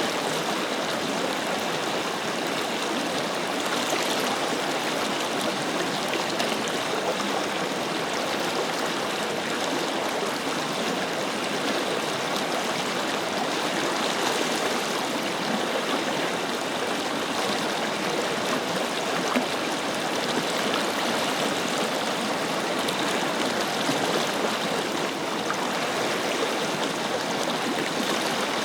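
A forest river flowing steadily: an even rush of running water with small gurgles and splashes.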